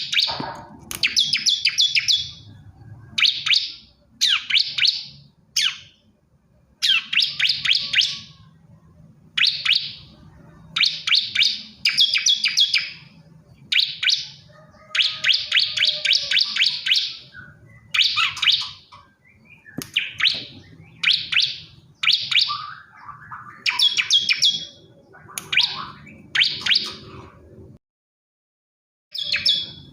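Male bar-winged prinia (ciblek kristal) singing: short bursts of rapid, high chirps, repeated about once a second with brief pauses between. The song breaks off completely for about a second near the end.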